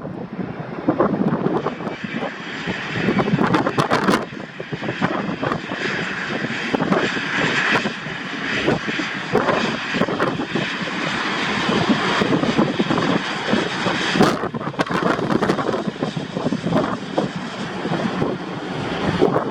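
Jet airliner engine noise, a loud, steady rushing sound with uneven gusty flutter through it.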